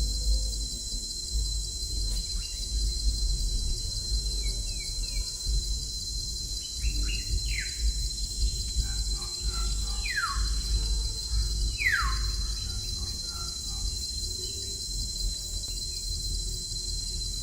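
Steady high-pitched insect chorus of crickets with a few bird calls over it: three clear falling whistles in the middle, about two seconds apart, and some fainter short chirps, over a low rumble.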